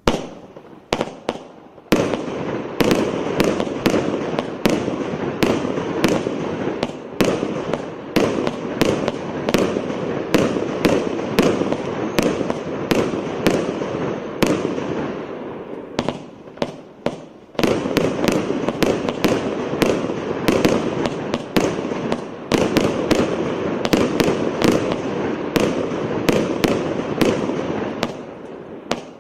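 A 600-shot, 1-inch firework cake firing: rapid shots and bursts of bangs over a continuous crackle. It eases off for a moment about 16 seconds in, then fires densely again.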